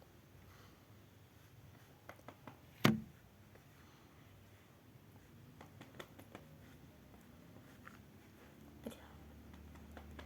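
Quiet room with faint scattered taps and clicks of small objects being handled, and one louder knock about three seconds in.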